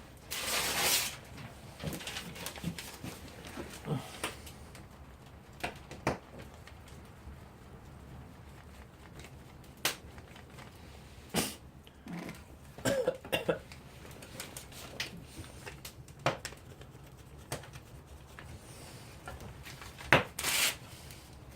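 Scattered snaps and crackles of small twigs being fed into a newly lit campfire, with a few louder, longer bursts right at the start, in the middle and near the end.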